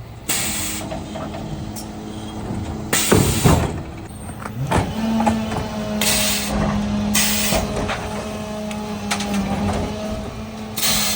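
Mercedes Econic refuse truck running steadily, with about five short bursts of hissing air.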